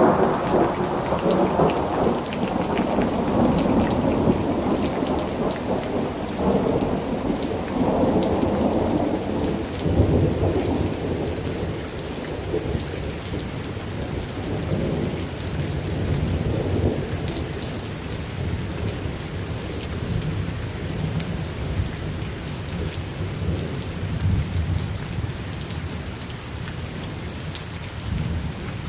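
Steady heavy rain falling, with scattered sharp drop ticks over the hiss. A deep rumble of thunder swells and fades over the first ten seconds, and then the rain goes on more evenly.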